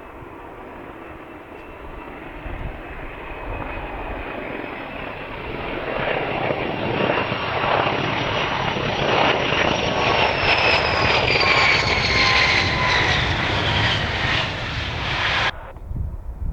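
Jet aircraft flying past, its engine noise building steadily louder as it approaches. A high whine falls in pitch as it goes by. The sound cuts off abruptly near the end.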